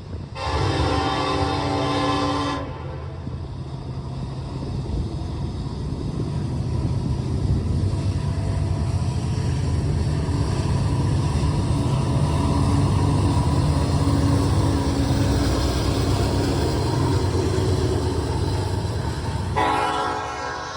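Diesel freight locomotive horn sounds two blasts, one of about two seconds near the start and another near the end. Between them runs a heavy low rumble of the passing train mixed with wind on the microphone, swelling toward the middle.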